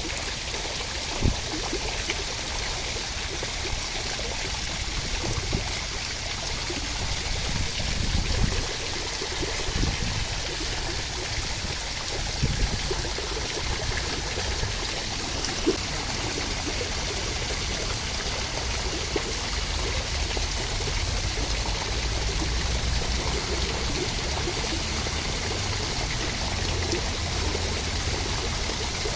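Steady rushing water, a continuous rain or stream noise, with a few brief knocks and some low rumble along the way.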